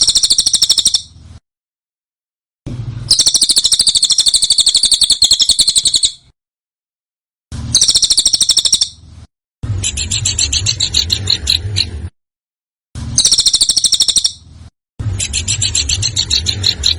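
Songbird song from a bird-training (masteran) recording: six bursts of rapid, harsh, high-pitched trills, each one to three and a half seconds long, with sharp cuts to silence between them. Some bursts are dense rattles; others are a fast run of separate clicking notes, roughly ten a second.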